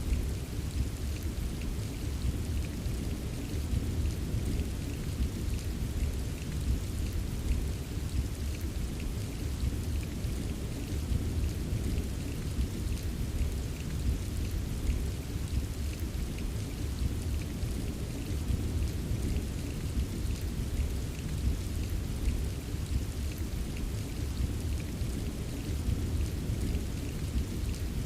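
Steady, continuous rain ambience: an even hiss of rainfall with fine scattered drop ticks over a constant low rumble.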